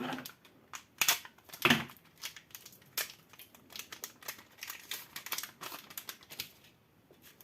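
Booster pack of trading cards being torn open by hand, its wrapper crinkling in irregular crackles. The loudest crackles come about a second and a second and a half in.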